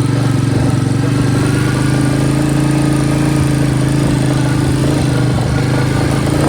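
Royal Enfield Bullet single-cylinder motorcycle engine running steadily under way, its pitch climbing a little in the first couple of seconds and then holding.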